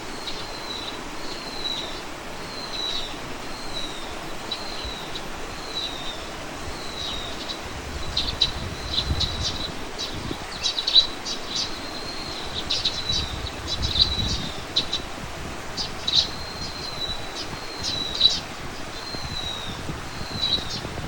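A songbird repeating a short, slightly falling call about once a second, with other birds adding sharp quick chirps through the middle. Twice there is a brief low rumble underneath.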